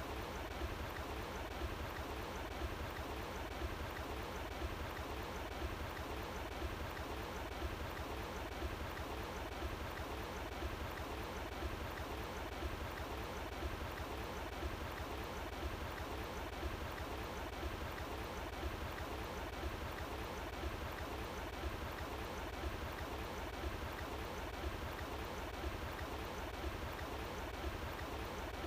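Running water flowing steadily, an even rushing sound with a low rumble underneath.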